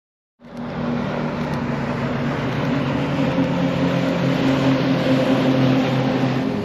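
Motorboat engine running steadily, a low even drone under a broad rushing noise; it cuts in suddenly about half a second in and builds slightly.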